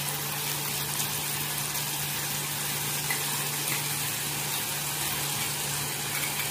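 Chopped onion, garlic and green chillies sizzling steadily in oil in an aluminium pan on a low gas flame as tomato ketchup and chilli sauce are stirred in, with a steady low hum underneath.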